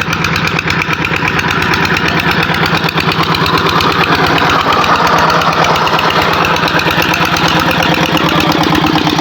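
A Peter diesel engine running steadily as it drives a tubewell pump to irrigate the fields, with a fast, even beat that grows a little louder over the first few seconds.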